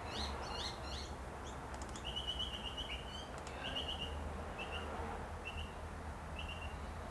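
A bird chirping: a run of quick falling chirps, a short trill about two seconds in, then single short chirps about once a second, over a steady low hum.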